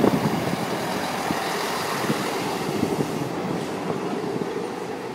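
Class 158 diesel multiple unit running through the station, a steady rolling rumble with wheel knocks over the rail joints, a sharp knock at the start, fading after about three seconds.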